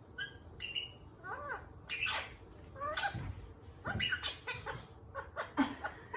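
Indian ringneck parakeet chattering: a string of short, high chirps and squawks mixed with mumbled, speech-like babble.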